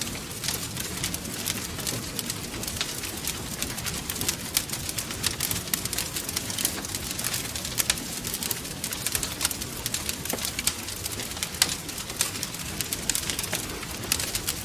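Wood fire crackling: many quick, irregular pops and snaps over a steady hiss and low rumble of burning logs.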